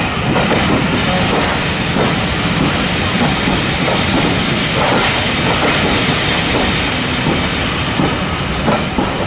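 Steam-hauled train, 60163 Tornado and its carriages, rolling on the track: a steady rumbling noise with a few sharp clicks at uneven intervals from the wheels over the rail joints.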